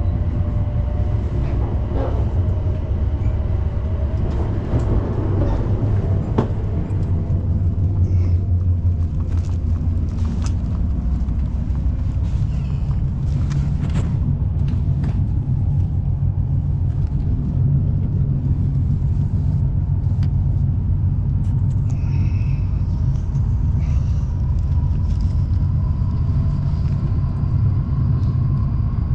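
Shinkansen bullet train running at speed, heard from on board: a steady low rumble with faint scattered ticks.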